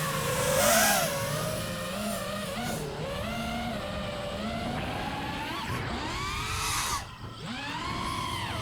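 FPV quadcopter's brushless motors whining in flight, their pitch swooping up and down as the throttle changes during flips and punches. The sound dips briefly about seven seconds in, then swells again.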